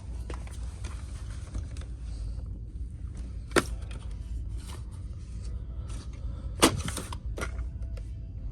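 Clicks, rustles and knocks of blister-packed toy cars being handled and flipped through, over a steady low hum. Two sharper knocks stand out, one about three and a half seconds in and a louder one near seven seconds.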